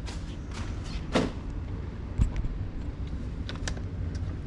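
Steady low machine hum from running HVAC equipment, with a few light clicks and one short knock about two seconds in.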